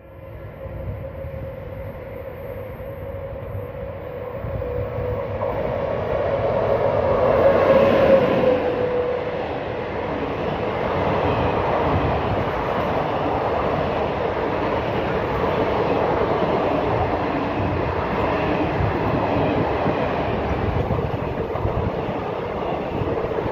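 Indian Railways passenger train passing close at speed. It grows louder as it approaches and is loudest about eight seconds in, then becomes a steady rumble and rattle of coaches going by.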